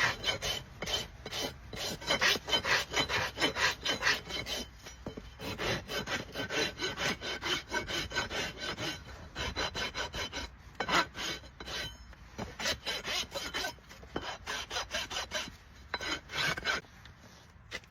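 Farrier's rasp filing a shire horse's hoof in quick, rhythmic scraping strokes, about four a second, with a few short pauses.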